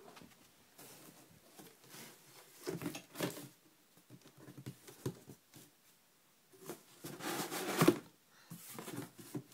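Irregular rustling and scuffling as a cat plays with a toy, in short bursts, the longest and loudest one late on.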